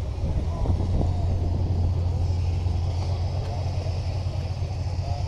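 A car engine running steadily at idle, a constant low hum, with faint voices in the background.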